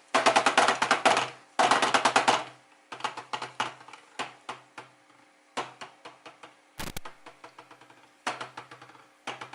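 Screws being driven to close up an Alesis electronic drum pad, heard as bursts of rapid clicking, loudest in the first two seconds, with a single sharp knock about seven seconds in.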